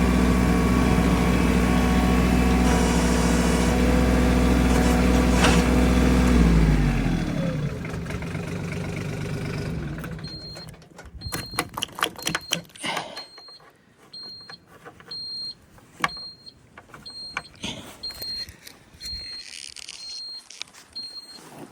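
Tractor engine running steadily, then winding down and stopping about seven seconds in as it is shut off. After that a short, high electronic beep repeats about once a second among scattered clicks and knocks.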